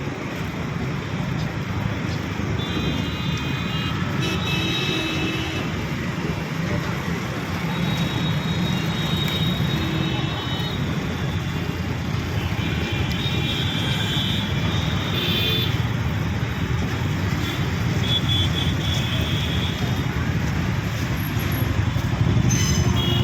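Steady rumble of an express train passing beneath a road bridge, with several short high-pitched tones of a second or two each over it.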